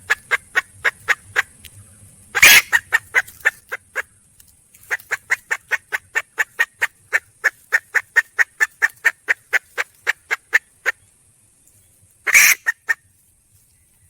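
Red junglefowl hen calling with fast runs of short clucks, about four a second. Two louder, harsh notes come about two and a half seconds in and near the end. This is the call a wild hen gives when calling for a rooster.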